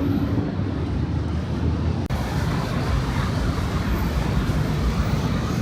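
Steady city street ambience dominated by the low rumble of passing road traffic.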